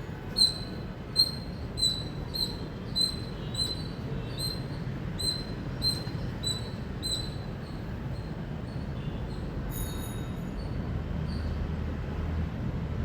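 Indian palm squirrel chirping: a series of short, sharp, high-pitched chirps, about two a second. They are loudest at first and grow fainter after about seven seconds.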